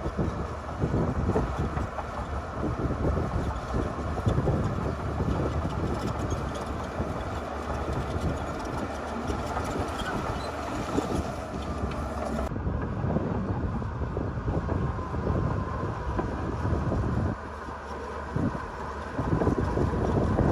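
Heavy diesel earthmoving machinery running, a dense low rumble without letup; the higher hiss drops away abruptly about twelve seconds in.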